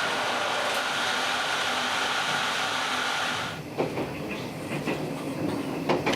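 Train running on rails: a steady rushing rail noise that changes abruptly a little over halfway through to a quieter, lower running sound with a few sharp clicks and knocks.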